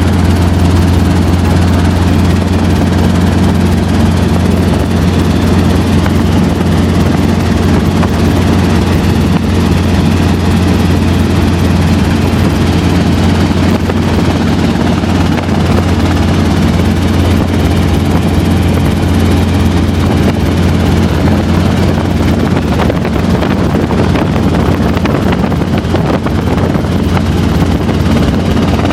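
Helicopter in flight: a steady, unchanging drone of rotor and engine noise with a strong low hum.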